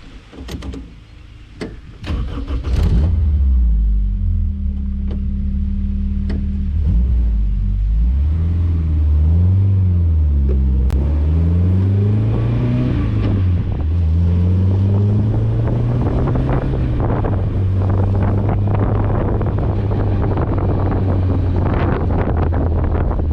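Honda S2000 four-cylinder engine in a 1959 MGA starting up after a few clicks, about three seconds in, then idling. Several light throttle blips rise and fall in the middle before it settles back to a steady idle.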